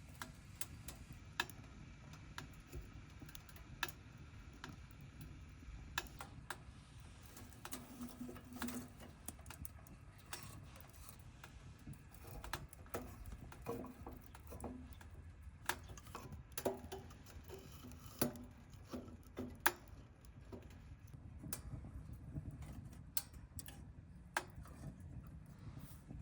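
Firewood crackling and popping in a wood-burning stove: irregular sharp clicks over a low steady rumble.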